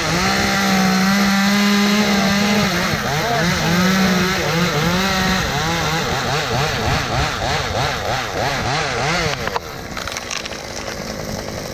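Chainsaw running under load while cutting through a tulip poplar limb, its engine pitch wavering up and down as the chain bites. About nine and a half seconds in the saw cuts off and the level drops suddenly.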